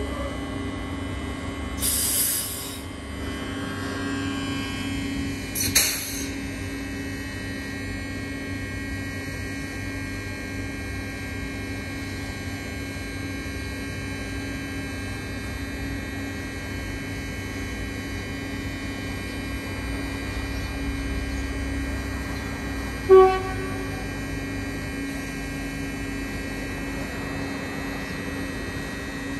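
Train running with a steady hum, with brief hisses about two and six seconds in and one short, sharp pitched beep near the end.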